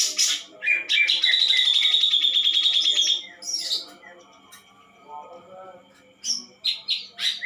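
Songbird singing: a fast, even trill of high notes lasting about two and a half seconds, then a lull with a few soft notes, then a handful of sharp, loud notes near the end.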